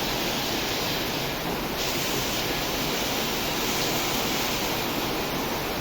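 Heavy rain pouring down hard, a steady, even downpour.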